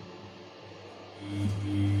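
Samsung P1271 washing machine: its drain pump switches on about a second in and then runs with a steady, loud mains-frequency hum.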